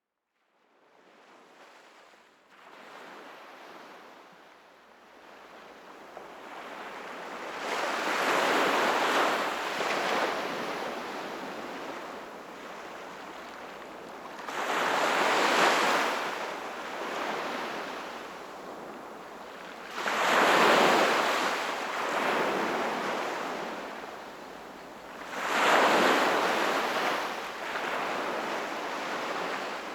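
Sea waves breaking and washing on the shore, fading in from silence at the start and then surging in swells about every five to six seconds.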